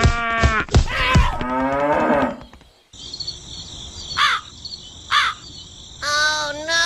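A cow mooing, one long drawn-out call of about two seconds, followed by a steady chirring of crickets with two short crow caws over it.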